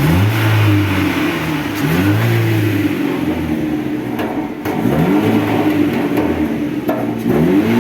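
Chevrolet Cobalt four-cylinder engine revved several times in quick blips, its pitch rising and falling with each one, heard through an exhaust whose muffler is breaking up inside.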